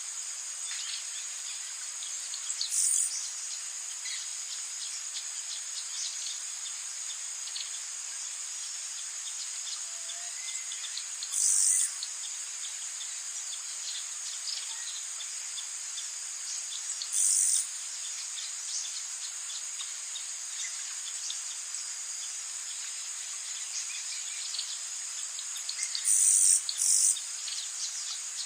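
Rainforest insect chorus: a steady high-pitched buzzing and chirring. Louder half-second bursts break in five times, twice in quick succession near the end, and faint bird chirps are scattered through it.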